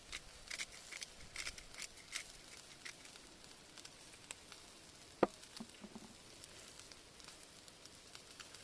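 Wood campfire crackling faintly, with a cluster of small pops in the first few seconds and one sharp, louder crack about five seconds in.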